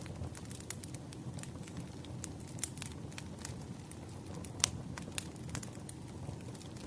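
Firewood burning: irregular crackles and sharp pops over a low steady rush of flame, the loudest pop a little past the middle.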